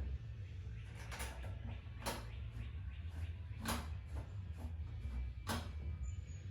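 Four short, sharp clicks or knocks, a second or two apart, over a steady low rumble.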